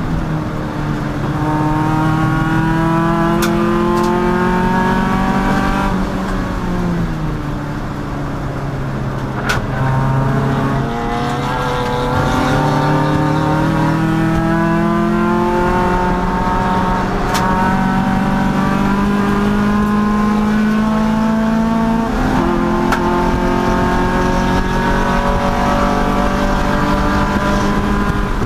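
Race car engine running hard at full throttle, its revs climbing slowly, then dropping away twice as it slows for corners before pulling up again. A few sharp clicks cut through.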